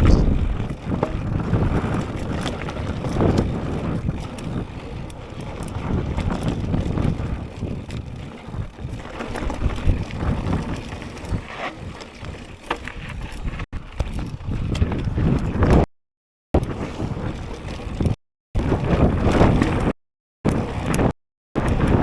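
Strong wind buffeting an action-camera microphone while a mountain bike rolls over a rough trail, with tyre noise and frequent clicks and rattles from the bike. Several times near the end the sound cuts out abruptly to dead silence.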